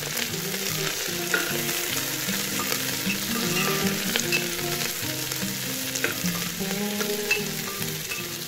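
Onions, curry leaves and rosemary sizzling in hot mustard oil, stirred with a metal ladle that scrapes and taps against the aluminium pot. A simple tune plays underneath.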